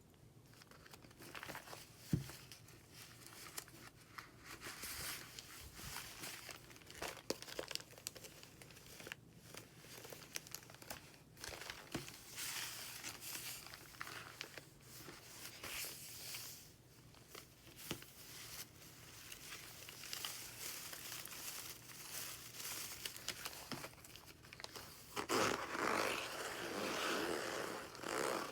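Paper pages of a handmade junk journal turning and rustling, with crinkling as sheets and postcards are handled and a few sharp ticks; the rustling grows loudest near the end.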